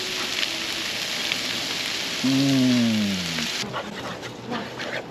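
Crab melt sandwich frying in a pan, sizzling steadily, until the sizzle drops away sharply about three and a half seconds in. Partway through, a single long falling voice-like call sounds over it.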